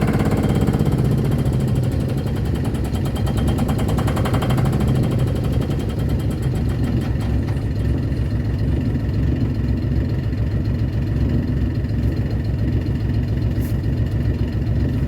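Diesel engine running steadily just after a cold start, with a fast, even beat of firing pulses. It sounds broader and harsher briefly near the start and again about four seconds in.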